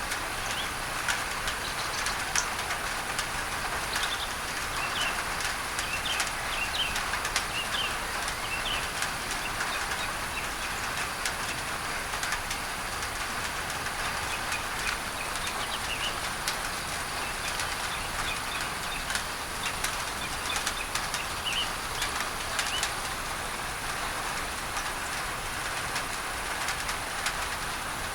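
Steady rain on a tin roof, with many sharp drop ticks over a mixed-in pink-noise hiss, while birds chirp on and off, most often in the first third.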